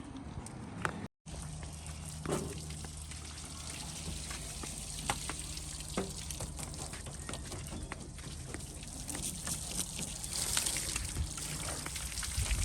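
Water pouring and trickling as a car is washed by hand, with small splashes and drips over a steady low hum.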